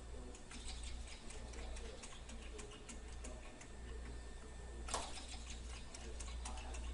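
Small lamina-flow Stirling engine running, its moving parts giving a quick, fairly even ticking over a low hum, with one sharper click about five seconds in.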